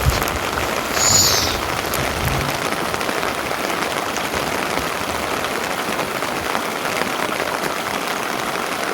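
Rain falling steadily, with a brief high-pitched sound about a second in.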